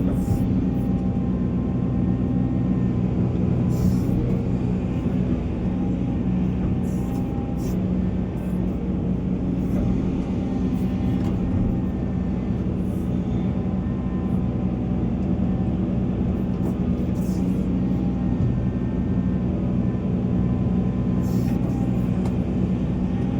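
Volvo EC480 excavator's diesel engine running steadily under working load, with occasional short, sharp clicks over the engine note.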